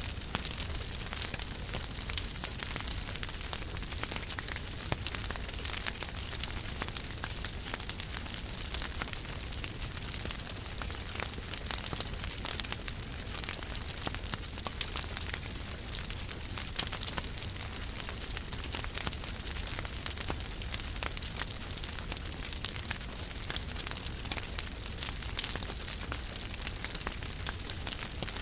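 Fireplace fire crackling steadily, with frequent small pops and a few louder snaps over a constant hiss and a low rumble.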